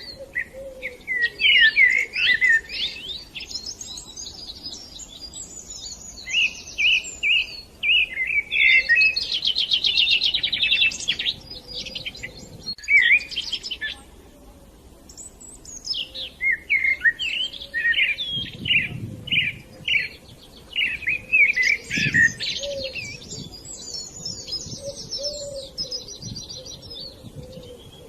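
Budgerigars chattering and warbling: fast, jumbled chirps mixed with buzzy rattling trills, with a short lull about halfway through.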